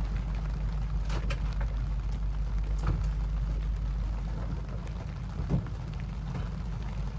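Rain on a sailboat in a storm: a steady low rumble with scattered small taps of drops, and a few louder knocks about a second in, near three seconds and about five and a half seconds in.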